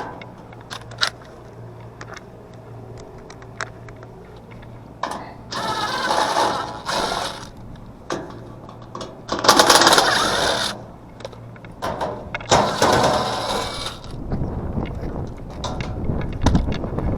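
Small metallic clinks and clicks from tools and parts being handled, over a faint steady hum, broken by three loud rushing bursts of about a second each.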